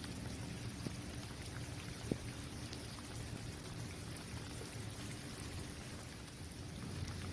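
Steady rain falling on a basketball court: an even rush with scattered drop ticks, and one sharper drop tap about two seconds in.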